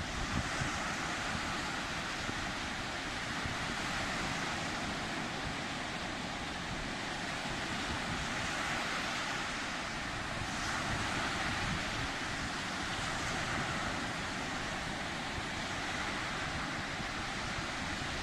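Sea surf washing continuously, a steady rush of waves that swells and eases gently.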